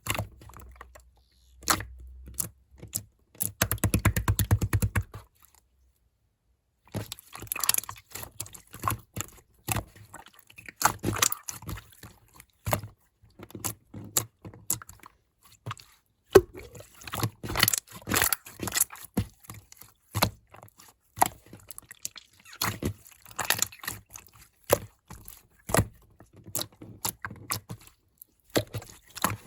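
Slime being squished and pressed by hand, making sticky clicks and crackling pops, with a short stretch of very fast dense clicking about four seconds in, then a pause of about a second before the clicking resumes.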